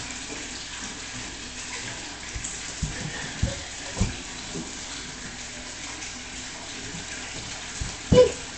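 Water running steadily from a tap, with a few soft knocks and a louder knock with a short pitched sound near the end.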